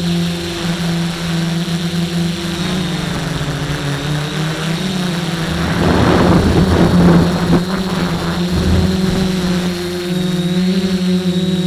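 DJI F450 quadcopter's E300 brushless motors and propellers humming, their pitch shifting up and down with throttle. A loud rush of noise comes in about six seconds in and lasts two seconds.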